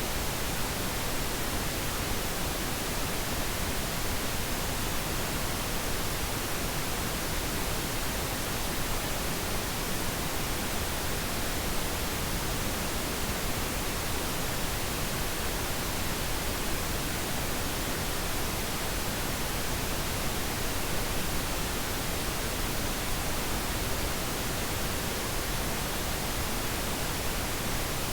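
Steady pink noise: an even, unchanging hiss spread across the whole range of pitch, with no tones or events.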